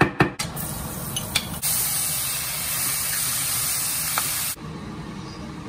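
A couple of sharp knife chops on a wooden cutting board, then a loud, steady sizzle of chicken frying in a wok. The sizzle grows louder about one and a half seconds in and cuts off suddenly about four and a half seconds in.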